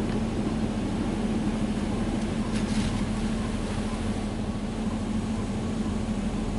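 Touchless car wash spraying clear coat protectant over the truck, heard from inside the cab: a steady hiss of water spray on the body over a steady low hum.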